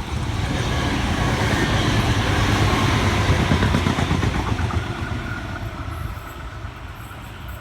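NSW TrainLink Xplorer diesel railcar passing through the station: engine and wheel rumble swells to a peak about three seconds in, then fades as it moves away, leaving a steady whine.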